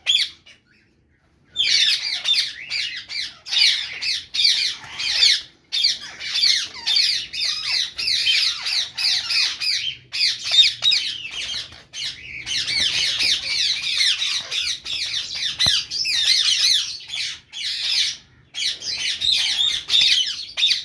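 Lovebirds calling in a rapid, shrill, continuous chatter, starting about a second and a half in after a short silence, with brief breaks now and then.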